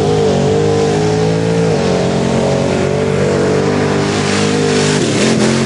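Mud-bog race truck's engine held at high revs near full throttle. The engine note shifts just under two seconds in, then the revs drop and waver near the end.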